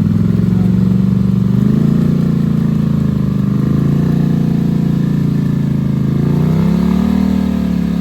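ATV engine running hard at high revs, its pitch climbing about two seconds in, easing off, then climbing again near the end.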